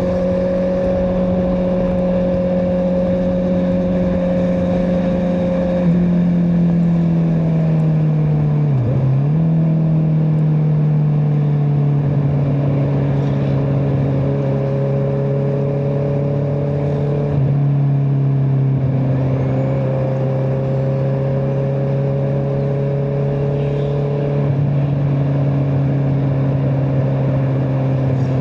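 Honda CBR650R's inline-four engine through an Akrapovic exhaust, running at steady cruising revs while riding. The note steps down slightly a couple of times and dips briefly about nine seconds in before settling.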